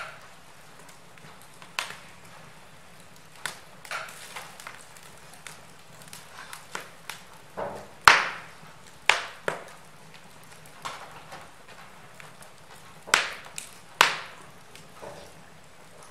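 Wood fire in a fireplace crackling: irregular sharp pops and snaps over a faint steady hiss, with the loudest snaps about halfway through and again near the end.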